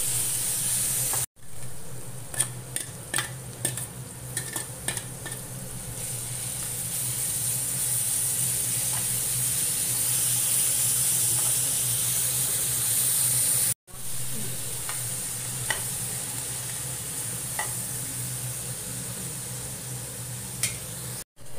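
Sliced onions and green chillies sizzling as they fry in a metal kadai, with a slotted metal spatula clicking and scraping against the pan as they are stirred. The sizzle is a steady high hiss, broken for an instant a few times by edit cuts.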